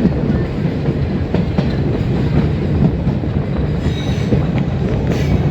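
Metre-gauge train running on the track: a steady, loud rumble of coach wheels and running gear, with scattered clicks from the rail.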